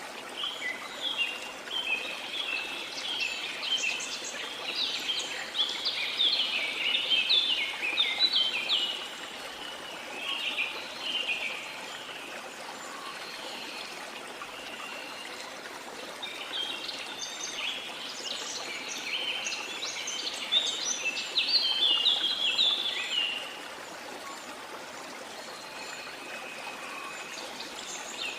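Steady rush of a flowing stream, with birds singing in dense chirping phrases for two long stretches, one early and one from about the middle to two-thirds through.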